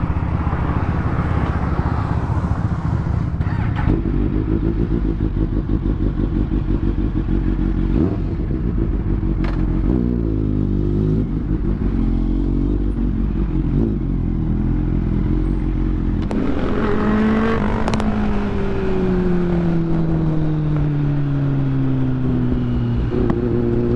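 Motorcycle engine running under way, its revs rising and falling with gear changes. Late on, the revs fall in one long glide as the bike slows, then climb again at the end.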